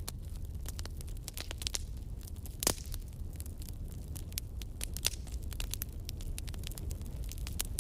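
Wood logs burning in a fireplace, crackling with frequent sharp pops over a low steady rumble. The loudest pops come a little under three seconds in and again about five seconds in.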